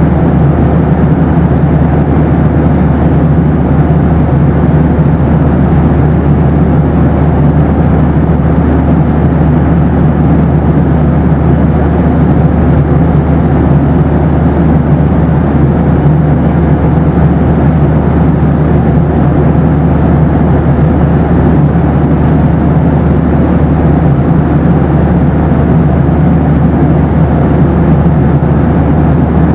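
Steady, loud low drone inside a Boeing 737 cabin: jet engine and airflow noise, even and unbroken.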